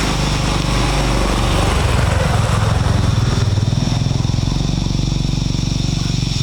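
A small engine running, picking up speed about two seconds in and then holding steady.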